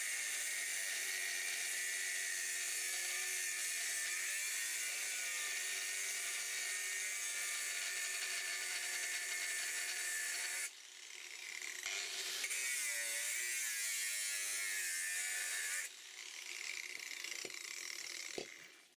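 Angle grinder with a cutting disc cutting into the steel shell of a refrigerator compressor, its pitch wavering under load. It drops out about eleven seconds in and again near sixteen seconds, picks back up each time, and stops near the end.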